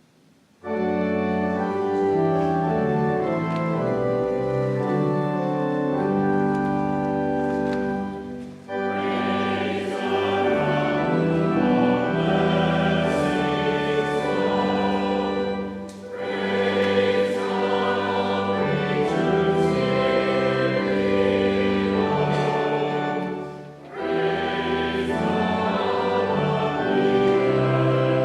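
Organ chords start suddenly about half a second in. From about nine seconds, voices sing a hymn over the organ in phrases of several seconds, with short breaths between them.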